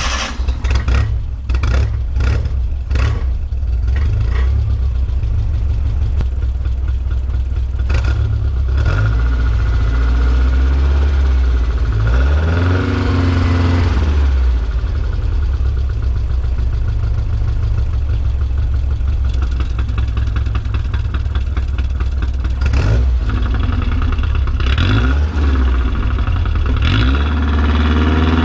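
Datsun Sunny truck engine running through its exhaust. It idles unevenly for the first few seconds, then settles into a steady idle with a short rev about halfway through and another near the end.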